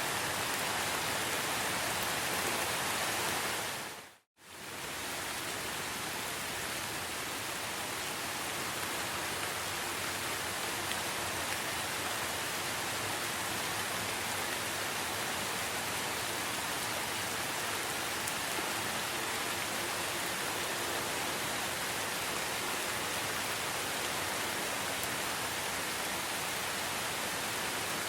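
Steady rain falling, an even wash of noise. About four seconds in it fades out to silence for a moment and then comes straight back, as at a splice between recordings.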